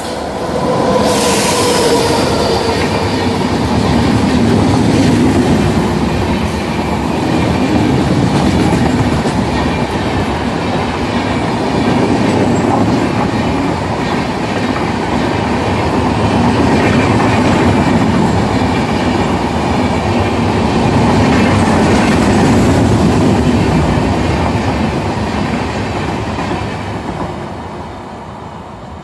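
Express train hauled by an Indian Railways electric locomotive passing through a station at speed without stopping. A steady two-note horn sounds as the locomotive arrives and stops about two seconds in. Then comes a long, loud rumble and clatter of the coaches' wheels on the rails, which fades near the end as the last coach goes by.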